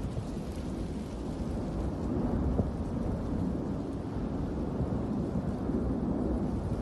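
Cumbre Vieja volcano erupting: a steady, deep rumble with fine crackle running on without a break.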